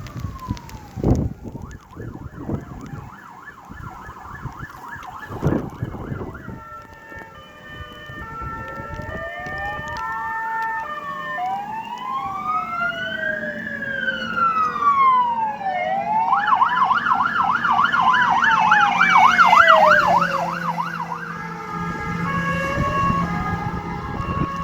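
Fire engine sirens sounding in turn as a fast yelp, a slow rising and falling wail, and steady alternating two-tone passages, with sweeps sometimes overlapping. They grow louder as the truck approaches and are loudest about 20 seconds in. Low thumps come in the first few seconds.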